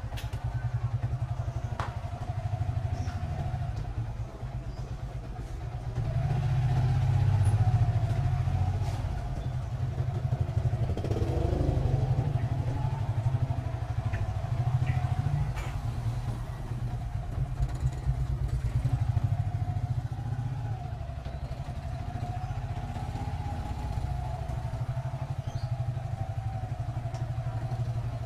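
Motorcycle engine running as the bike rides along, its note wavering up and down and swelling louder about a quarter of the way in.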